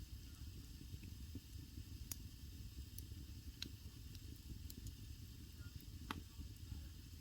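Wood fire burning in a traditional Korean agungi firebox: a low steady rumble of flames with a faint hiss, broken by several sharp crackles of burning wood, the loudest about six seconds in.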